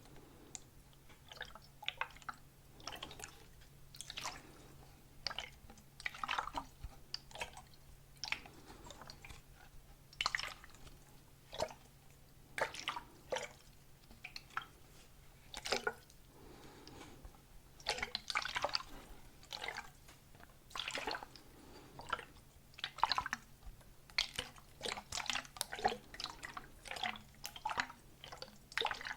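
ASMR mouth sounds close to the microphone: irregular wet clicks, pops and smacks, several a second at times, with short pauses between.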